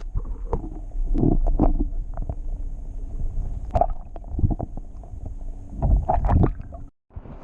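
Irregular knocks, bumps and rubbing against a kayak hull while a fish is handled aboard, over a constant low rumble. The sound cuts off abruptly about a second before the end.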